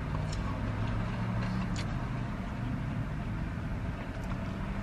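A car engine idling, a steady low hum heard inside the cabin, with a few faint chewing clicks.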